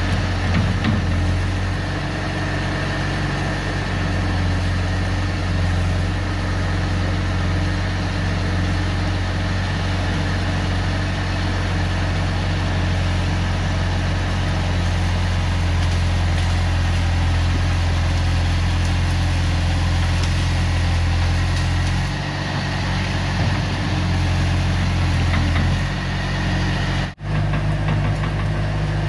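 Bobcat T250 skid-steer's diesel engine running steadily with a low hum, its note changing about three-quarters of the way through. The sound drops out for an instant near the end.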